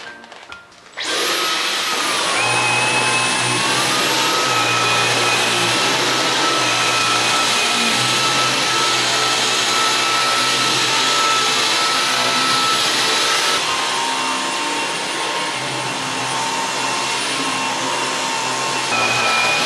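Vacuum cleaner switched on about a second in, its motor whine dipping and rising in pitch over the next few seconds, then running steadily.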